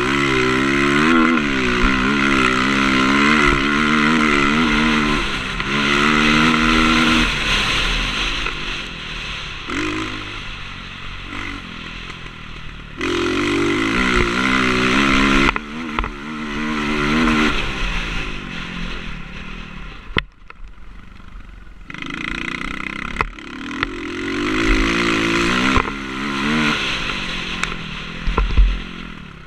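Motocross bike engine revving up and down as the throttle is opened and closed, its pitch repeatedly rising and falling, with quieter stretches where it drops off. A low wind rumble sits on the action camera's microphone underneath.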